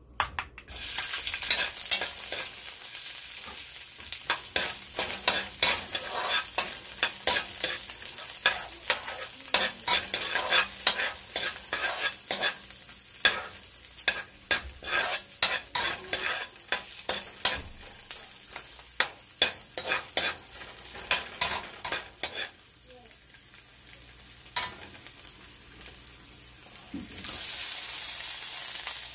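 Garlic cloves sizzling in hot oil in a metal wok, with a metal spoon scraping and clicking against the pan as they are stirred, a couple of strokes a second. The stirring stops about three-quarters of the way through, and near the end the sizzle grows louder as sliced onion goes in.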